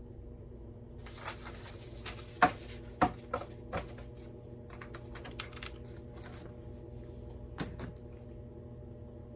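Computer keyboard typing in short, irregular runs of keystrokes, a few louder clacks about two to three seconds in, over the steady hum of a washing machine running.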